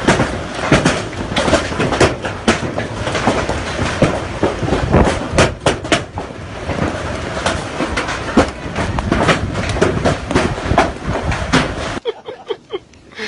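Close thunder: a long, loud rumble full of sharp crackles that cuts off abruptly about twelve seconds in.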